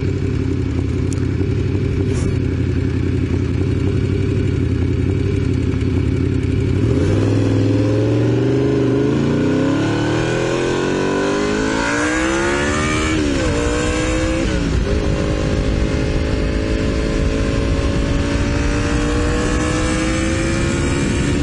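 Honda VFR750 V4 engine heard from the rider's helmet camera. It runs steadily at low revs, then accelerates with rising pitch. Two quick gear changes come about 13 and 15 seconds in, and it then cruises with the pitch slowly climbing while wind noise grows.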